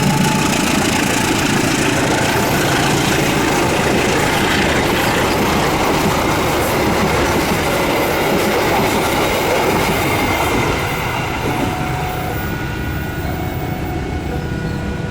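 Passenger train passing at close range, its carriages' wheels rumbling and clattering over the rails; the noise eases about eleven seconds in as the train moves away.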